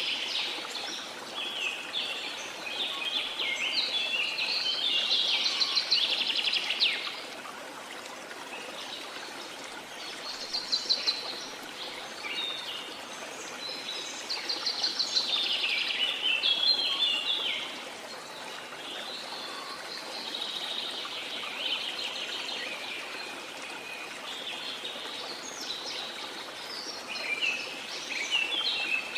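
Birds singing in chirping, trilled phrases that come in bouts of several seconds with short pauses between, over a steady rush of falling water from a waterfall.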